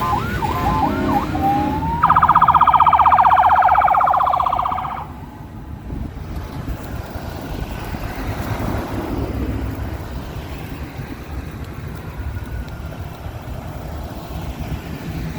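Police siren yelping in fast up-and-down sweeps, then a loud buzzing electronic horn blast for about three seconds. After the blast, a low rumble of engines and traffic carries on.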